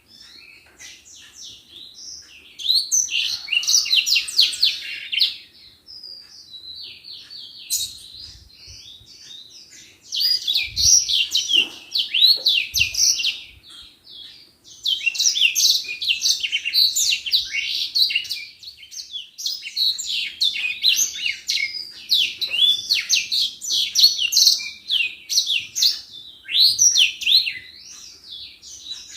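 Edelsanger singing fast, high twittering phrases of quick chirps. The phrases last several seconds each and are broken by short pauses.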